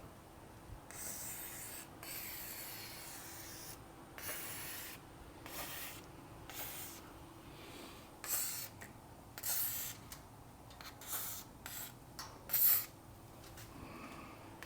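Aerosol can of 3-IN-ONE garage door lubricant sprayed in a series of short hissing squirts, about a dozen, most under a second and one about two seconds long, as the metal rollers and tracks of a garage door are lubricated.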